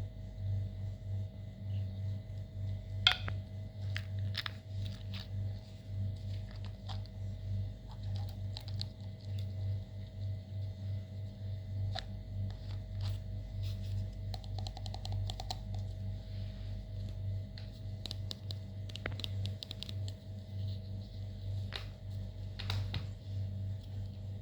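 Slime being mixed: scattered sticky clicks and small crackling pops, with one sharp click about three seconds in, over a steady low hum.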